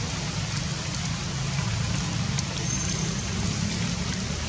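Steady rain falling, a constant hiss with a low rumble underneath.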